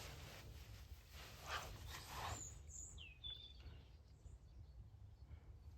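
Quiet room tone with a few soft rustling noises in the first two seconds, then a few brief high bird chirps.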